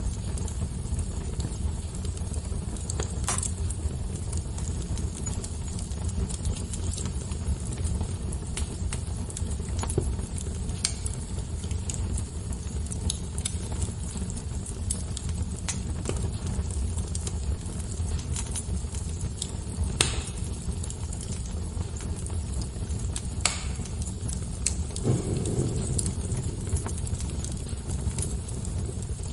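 Wood fire crackling: irregular sharp pops and snaps, a few louder ones scattered through, over a steady low rumble.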